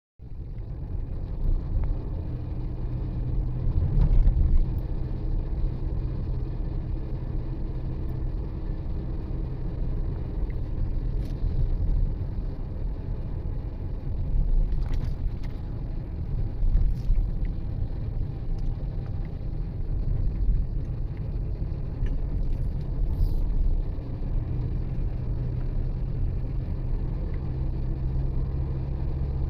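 Steady low rumble of engine and road noise from a moving road vehicle, heard from on board while driving.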